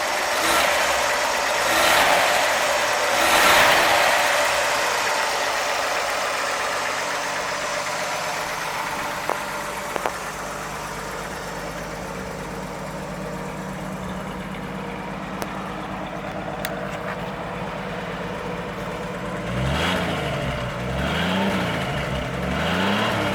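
1956 Chevrolet Bel Air's inline six-cylinder engine running, with louder swells in the first few seconds, then idling steadily. It is revved up and down a few times near the end.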